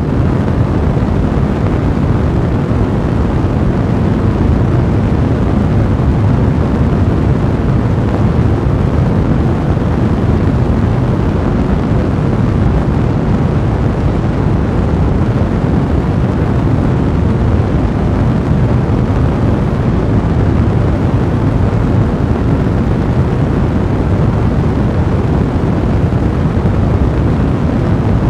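Fire blazing with a steady, dense, low roar.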